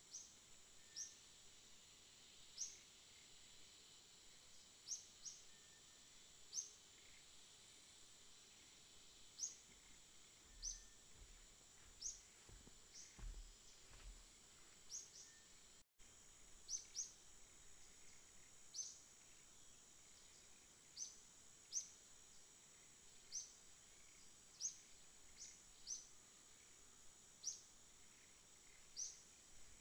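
Faint background bird chirping: short single high chirps, one every second or two, over a steady high hiss. A few soft low thumps come about halfway through.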